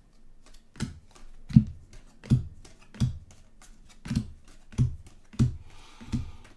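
Paper trading cards being flipped through one by one: a short tap with a low thud about every two-thirds of a second, and a brief papery rustle near the end.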